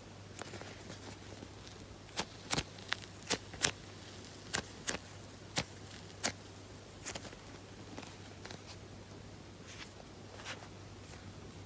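Hands handling soft squishy toys: a run of sharp clicks and taps, clustered between about two and six and a half seconds in and softer later, over a steady low hum.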